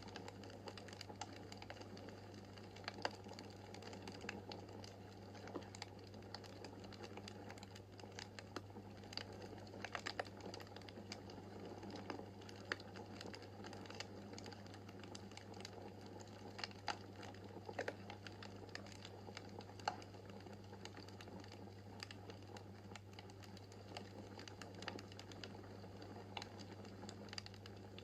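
Wood fire in a fireplace crackling: irregular small pops and snaps over a soft steady hiss, with an occasional sharper crack, and a steady low hum beneath.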